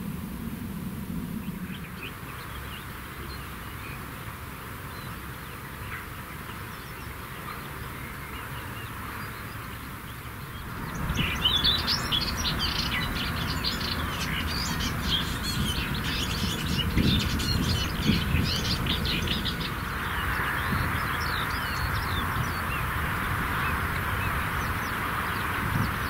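Songbirds singing outdoors, with many quick chirps and trills that grow dense from about eleven seconds in.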